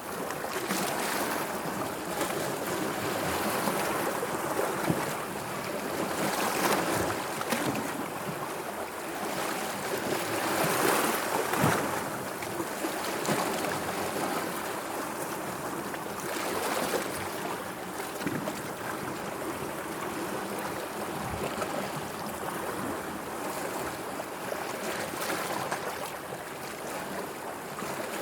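Sea waves washing and lapping, the noise swelling and easing every few seconds.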